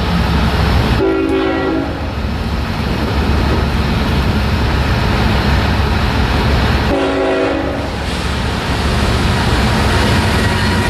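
Locomotive air horn sounding two short blasts, about a second in and again about seven seconds in, over the steady low rumble of a moving train.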